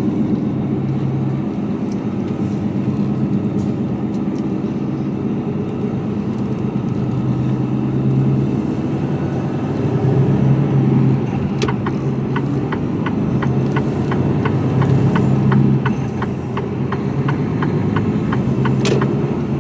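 Mercedes-Benz Actros truck heard from inside the cab: the diesel engine runs steadily on the move. From about halfway in, a regular ticking about twice a second sets in, the typical sound of the turn indicator, with a sharper click near its start and end.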